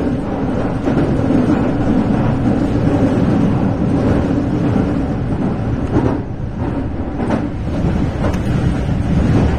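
Meitetsu local electric train running along the track, heard from inside the car: a steady rumble of wheels on rails under a low hum, with a couple of short knocks about two-thirds of the way through.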